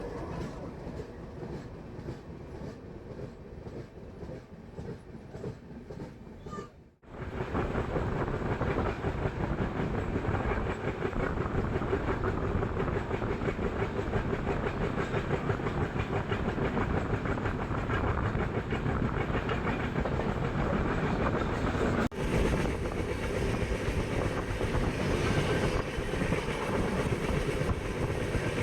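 Express passenger train running along the track, its wheels clattering over the rails. The sound breaks off for a moment about seven seconds in, then carries on louder and steadier, with another brief break a little after twenty seconds.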